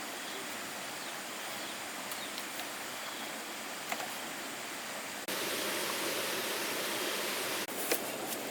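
Steady rush of flowing water, abruptly louder for a stretch from about five seconds in, with a few sharp clicks near the end.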